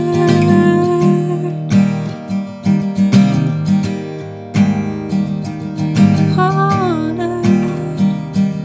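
Acoustic guitar strumming chords in an instrumental passage of a live song. A short, wavering higher note sounds over it about six seconds in.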